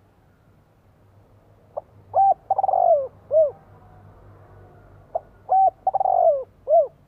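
Spotted dove cooing: two phrases about three and a half seconds apart. Each has a couple of short notes, a longer falling coo and a short final note.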